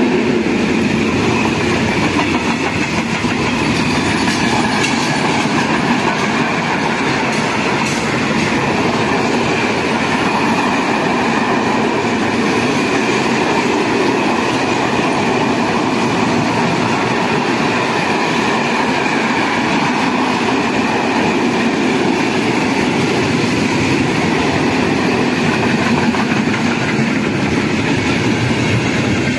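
Container freight wagons of a passing diesel freight train rolling by at close range: a steady, loud rumble of steel wheels on the rails with clattering that holds unbroken throughout.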